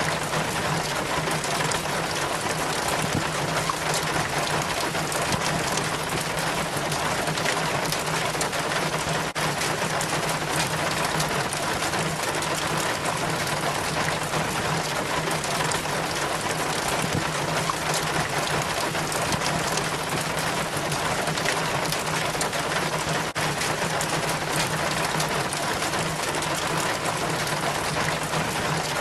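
Rainwater trickling steadily down a rain chain from a roof gutter, with rain pattering around it.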